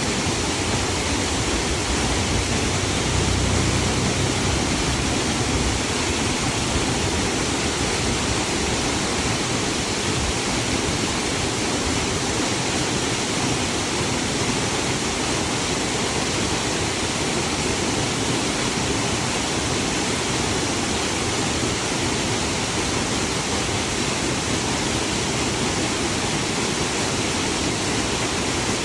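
Waterfall rushing as a steady, even roar of falling water, with a brief low rumble about three to five seconds in.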